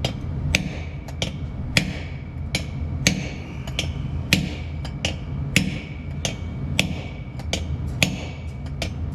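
A hammer striking metal in a steady series of taps, about one and a half a second, each with a short metallic ring, as parts are driven in evenly on a truck's wheel hub.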